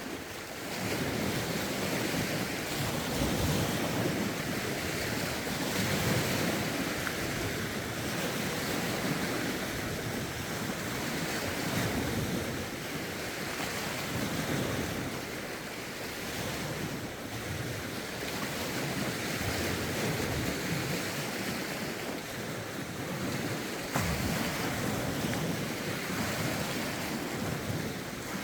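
Lake waves washing ashore in a rough wind, rising and falling every couple of seconds, with wind buffeting the microphone in low rumbling gusts.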